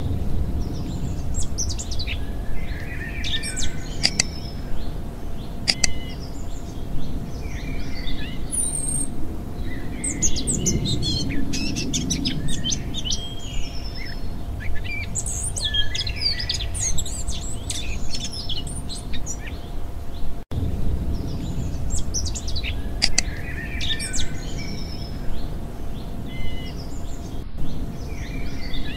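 Birdsong ambience: many small birds chirping and trilling in irregular flurries over a low steady rumble. It starts abruptly and breaks off for an instant about two-thirds of the way through.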